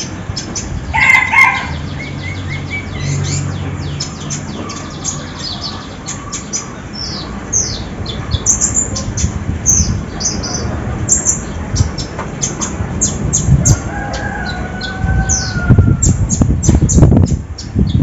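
Konin dabu songbird singing a dense run of quick, high chirps and trills. A rooster crows once in the background, a drawn-out call about three-quarters of the way through, and there is a burst of low rumbling noise near the end.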